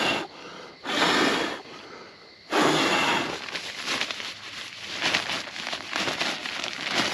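Air whooshes into a nylon stuff-sack pump bag twice at the start. From about two and a half seconds in, the fabric rustles and crinkles steadily as the bag is squeezed and rolled to push air into an inflatable sleeping pad.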